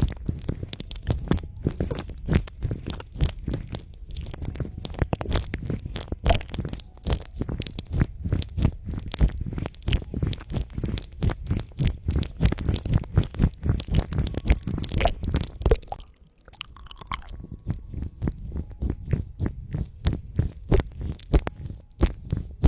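Close-miked ASMR trigger sounds: rapid, crackly clicks several per second, with a short break about two-thirds of the way through.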